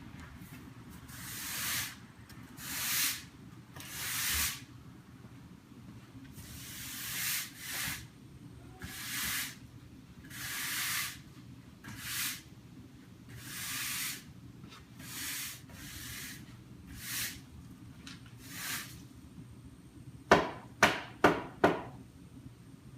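Broom sweeping a garage floor in about a dozen separate strokes, roughly one every second and a half. Near the end there is a quick run of about five sharp knocks.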